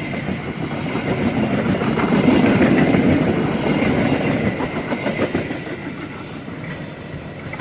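Train passing close by on the tracks: a heavy rumble with wheels clattering over the rail joints, loudest about two to three seconds in, then fading as it moves away.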